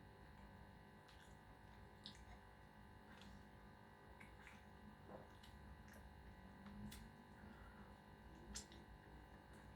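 Quiet eating: soft mouth clicks and smacks while chewing, scattered about once a second over faint room hum.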